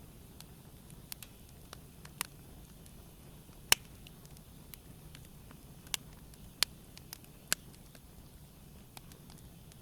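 Wood fire crackling gently: a soft low hiss with sharp, scattered pops and snaps, the loudest about a third of the way in.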